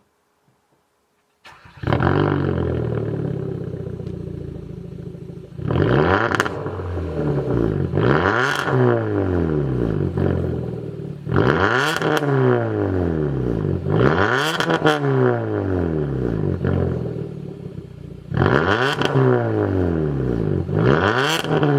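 Kia K3's engine through an aftermarket exhaust with a mid-high-tone centre muffler and dual end mufflers. It starts about a second and a half in, with a loud flare that settles toward idle, then is revved six times in quick pairs, each rev rising and falling in pitch.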